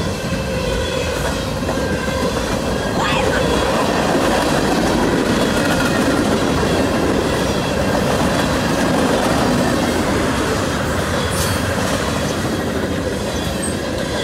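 A CSX freight train's cars rolling past: a loud, steady rumble of steel wheels on the rails, with a faint thin squeal of wheels on the rails running through it.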